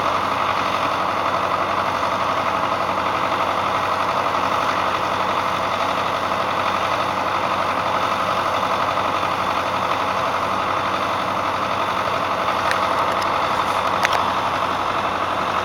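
Tractor engine idling steadily during a cold-morning warm-up, with one brief sharp click near the end.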